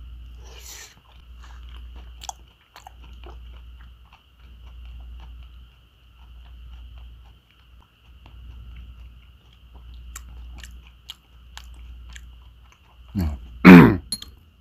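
A person chewing a soft slice of raw catfish sashimi close to the microphone, with small wet mouth clicks. Near the end, a short low vocal sound falling in pitch.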